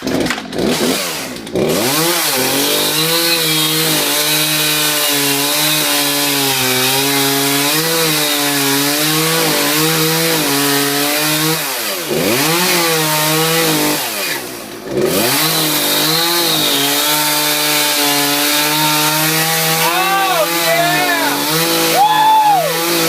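Two-stroke chainsaw starting up and running at high revs while cutting a dry block of wood. Its pitch dips and recovers twice about halfway through, and it revs up and down several times near the end.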